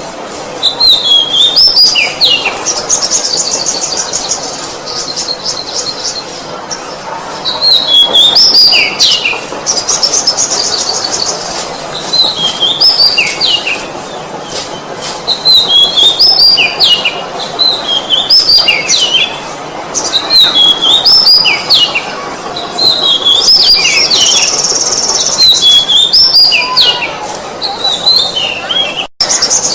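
Oriental magpie-robin (kacer) singing: repeated phrases of clear, falling whistled notes every two to three seconds, alternating with fast, high trills.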